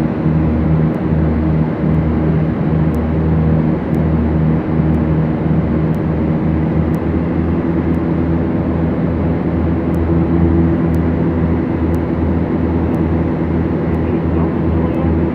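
Beechcraft Duchess's twin Lycoming O-360 piston engines and propellers running in a steady drone, with an uneven pulsing in the low hum.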